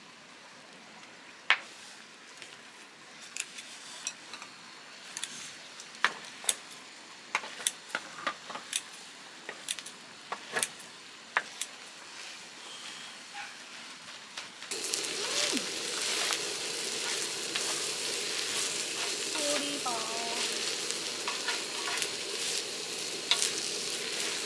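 Scattered light clicks and knocks, then about fifteen seconds in a steady sizzling starts suddenly and carries on, typical of food hitting a hot pan and frying.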